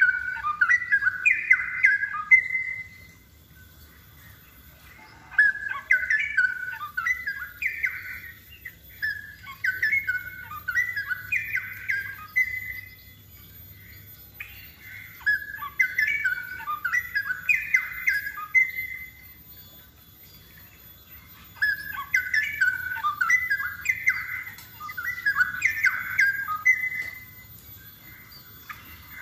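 Straw-headed bulbul (cucak rowo) singing rich, bubbling warbled phrases, in bouts of several seconds with short pauses between.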